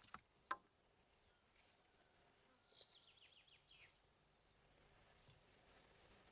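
Quiet outdoor ambience in which a songbird sings one short phrase of quick notes falling in pitch, about three seconds in, followed by a thin high whistle. A couple of soft clicks sound near the start.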